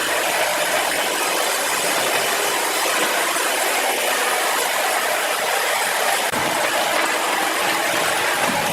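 A sawmill saw cutting through a large log: a loud, steady hissing noise with no break.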